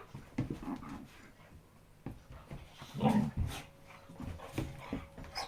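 A dog making short, breathy huffs and snuffles, with a louder burst about three seconds in.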